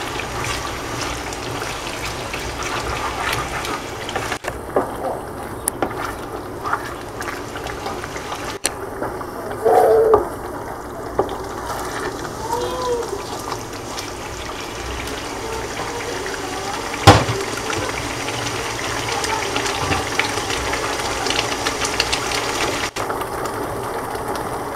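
Canned tuna and pesto sizzling in butter in a frying pan while being stirred with a wooden spatula. One sharp knock comes about two-thirds of the way through.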